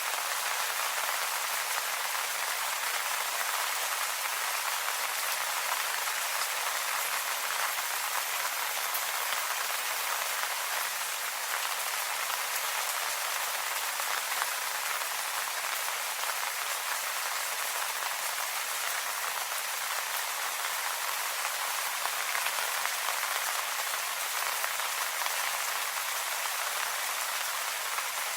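Steady rain falling on leaves, an even patter of many small drops.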